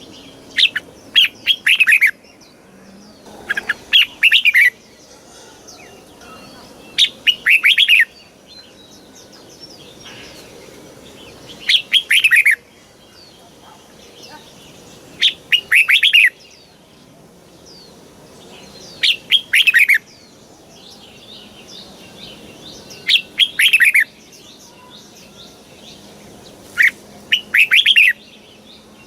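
Red-whiskered bulbul singing: short phrases of quick falling notes, each about a second long, one phrase roughly every four seconds.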